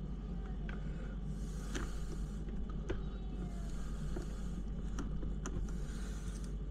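Scattered light clicks and short rustling scrapes of small hand tools and plastic RC parts being handled while screws are worked into a plastic skid plate, over a steady low background hum.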